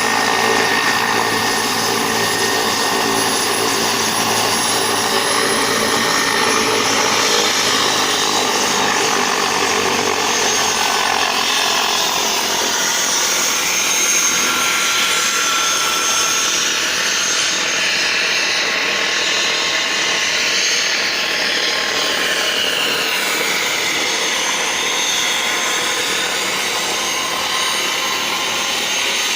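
Helicopter running: a steady turbine whine and rotor rush, with tones that drift slowly in pitch.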